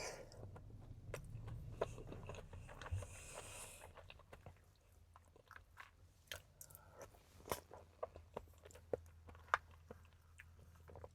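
Close-up chewing of soft peach cobbler and ice cream, with many small wet mouth clicks and smacks. A steady low hum runs underneath.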